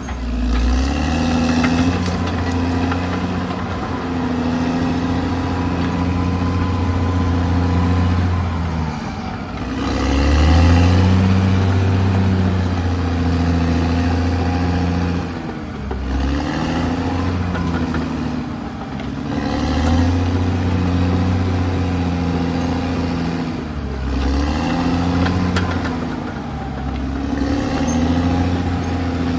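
Caterpillar D6R XL bulldozer's diesel engine running steadily and loud, its pitch repeatedly sagging and picking back up every few seconds as the load on the machine changes.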